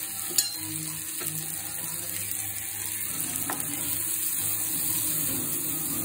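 Sliced onions and garlic sizzling in butter in a frying pan, with the pan shaken and tossed to move them. A sharp click about half a second in.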